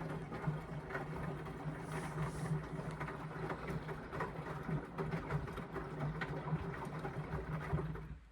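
Indesit washing machine running a wash cycle with a full load: a steady motor hum with irregular knocks and clicks as the drum turns the laundry, stopping abruptly near the end.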